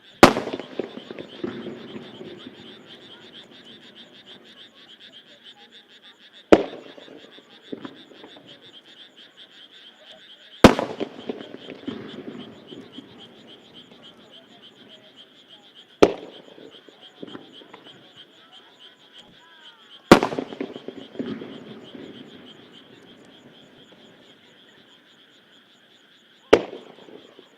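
Aerial firework shells bursting one at a time: six loud bangs several seconds apart, several followed by a crackling tail. Frogs croak steadily underneath in a pulsing chorus.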